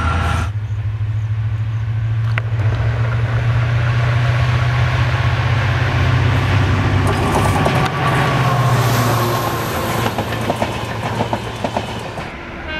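Locomotive-hauled train passing close by, with a steady low engine drone under wheel noise. A rapid clickety-clack of wheels over rail joints builds up during the second half.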